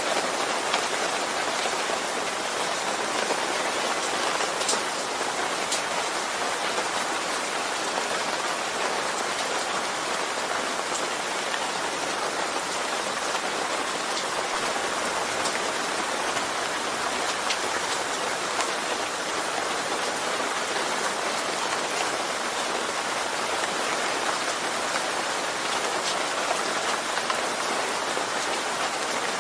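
Steady rain falling on a surface, a constant even patter with a few sharper drop ticks.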